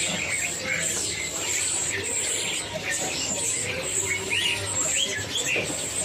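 Caged songbirds chirping: short, high calls scattered through, over steady background noise.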